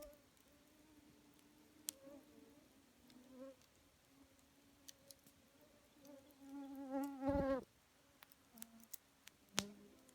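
A flying insect buzzing around, its wavering hum swelling and bending in pitch as it passes close about seven seconds in. A few sharp crackles from the wood campfire sound along the way, the clearest near the end.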